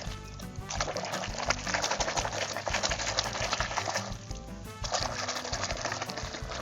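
Water spraying in a hissing stream onto a muddy toy vehicle as it is washed clean, stopping briefly about four seconds in and then starting again. Background music plays underneath.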